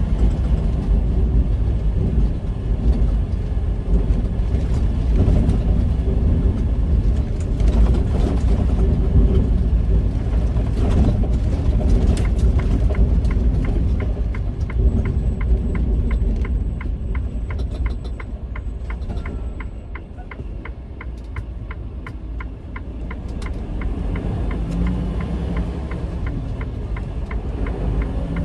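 Semi-truck's diesel engine and road rumble heard from inside the cab while driving slowly. About halfway through, a regular ticking of about two or three clicks a second starts and runs on.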